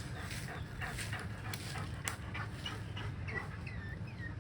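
A dog whimpering, with a couple of light clicks.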